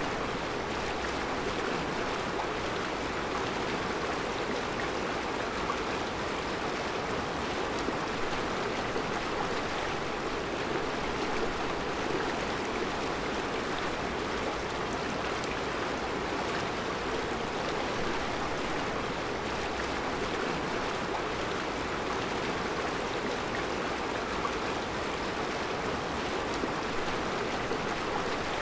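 Mountain river flowing steadily over round rocks in a rocky bed, a constant even rush of water.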